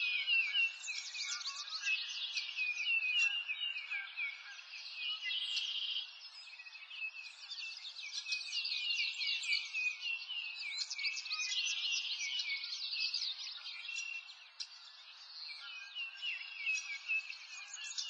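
Birdsong chorus: several birds chirping and trilling at once in quick, overlapping high calls, over a faint even hiss.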